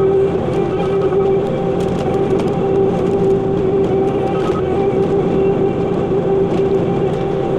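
Bobcat T86 compact track loader running steadily under work, its diesel engine and hydraulics giving a constant whine, with scattered light clanks.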